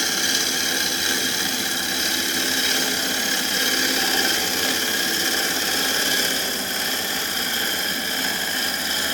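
Record Power CL4 wood lathe running steadily at about 1000 RPM on its 1 hp motor and variable-speed inverter drive, a steady whine of several fixed tones, while a gouge shear-cuts the outside of a soft London plane bowl, taking very fine shavings.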